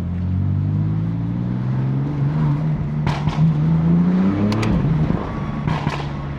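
BMW F80 M3's twin-turbo inline-six accelerating, its pitch rising steadily for about four and a half seconds, then dropping as the throttle comes off, with two sharp cracks at that moment.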